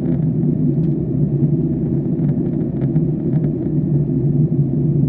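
Steady low rumble of an airliner cabin in flight: jet engine and airflow noise heard from a passenger seat.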